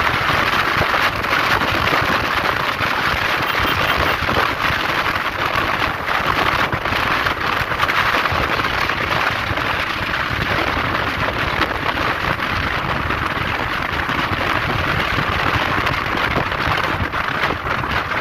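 Steady rushing noise of wind and rain hitting the microphone of a motorcycle riding fast in the rain.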